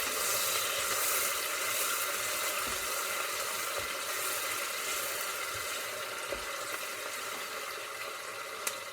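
Chopped onions sizzling as they fry in hot oil in a pan: a steady hiss that eases off gradually, with a light click near the end.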